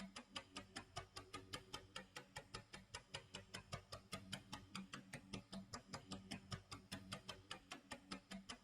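Clock tick-tock sound effect: fast, even ticking with a low hum underneath.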